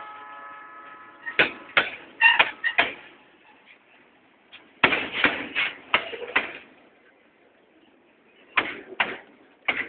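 A slow-moving freight train of flat wagons making sharp metallic clacks from its wheels and couplings, in clusters with quieter gaps between. A steady high-pitched squeal fades out in the first second or so.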